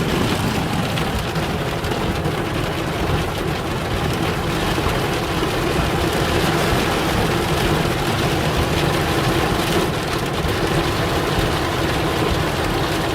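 Heavy, wind-driven storm rain beating steadily on a van, heard from inside the vehicle.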